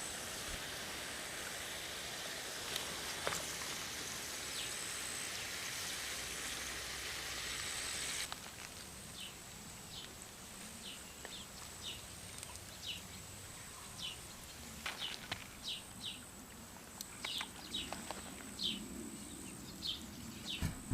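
Steady outdoor rushing noise that cuts off abruptly about eight seconds in. It is followed by a quieter background with short, high, falling bird chirps every second or so.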